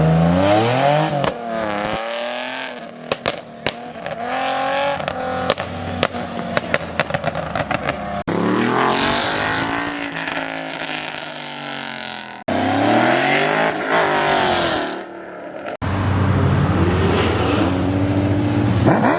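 Cars revving hard and accelerating away, engine pitch repeatedly climbing and falling, in several short clips cut one after another. Sharp crackles between about 3 and 8 seconds in.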